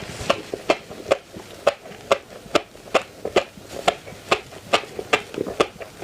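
Close-miked chewing of crunchy food, a steady run of crisp clicks about two to three a second.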